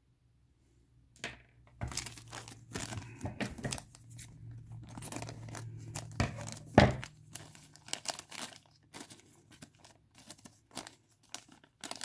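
Plastic bag of miniatures being opened by hand, crinkling and tearing in irregular rustles, with one louder sharp knock about seven seconds in.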